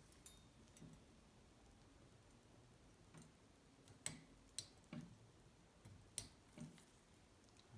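Near silence with a few faint, sharp clicks spread through it, about five in all, like small metal parts or tools being handled.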